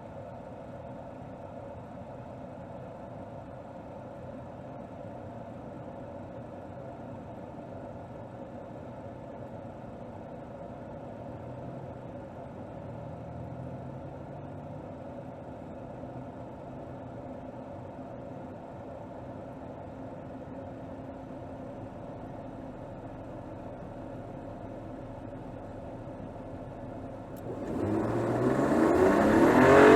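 Mercedes GLS 450's turbocharged 3.0-litre inline-six with mild-hybrid boost, heard from under the hood, running steadily at low revs. Near the end it turns into a full-throttle Sport-mode acceleration, loud, with the revs climbing steeply.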